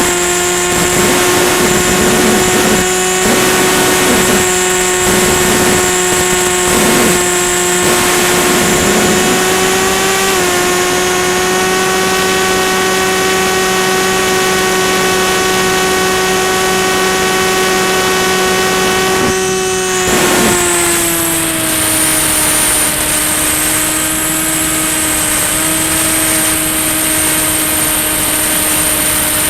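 Electric motor and pusher propeller of a Volantex Ranger EX FPV plane in flight, heard from on board as a steady whine with strong overtones over rushing air. The pitch rises a little about a third of the way in and drops about two-thirds of the way in as the throttle is eased.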